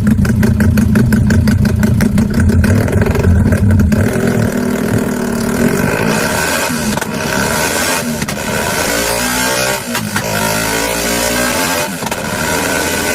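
Yamaha Y15ZR's 150 cc single-cylinder four-stroke engine running loudly with rapid firing pulses, then being revved, its pitch rising and falling from about six seconds in.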